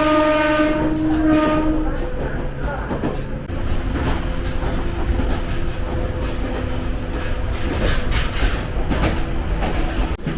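An electric local train on the Jōshin Line sounds a horn or whistle with one steady pitched note for about the first two seconds, then runs on with a steady rumble and the clack of wheels over rail joints.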